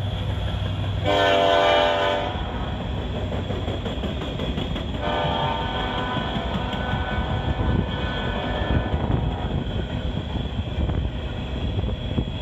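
BNSF freight locomotive's air horn blowing twice as it pulls away, a short blast about a second in and a longer, fainter one from about five seconds in that fades out, over the steady rumble and wheel clicks of coal hopper cars rolling past on the rails.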